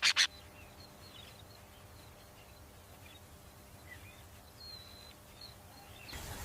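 Faint outdoor ambience with a few short, high bird chirps. A loud run of rapid pulses cuts off about a third of a second in, and a steady noise rises near the end.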